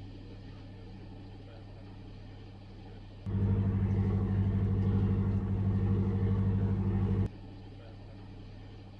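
Ship's horn sounding one long, low, steady blast of about four seconds, starting about three seconds in and cutting off sharply, over a steady low engine hum.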